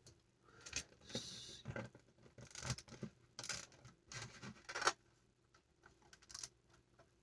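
Plastic LEGO bricks being handled: scattered clicks and scraping as pieces are pulled off and pressed back into place, with a short rustle about a second in.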